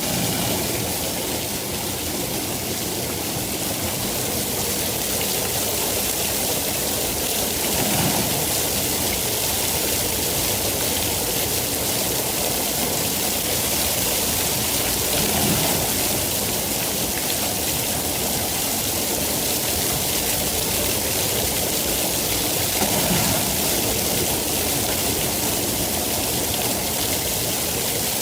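Steady, heavy rain falling, an even hiss with brief low swells about three times.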